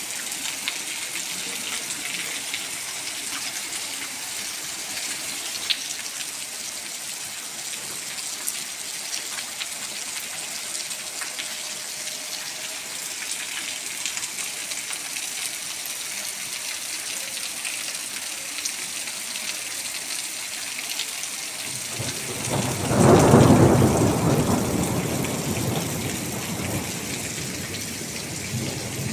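Steady rain hissing on a wet road, with scattered drop ticks. About 22 seconds in, a low rumble of thunder swells up, is loudest a second or two later, and slowly fades.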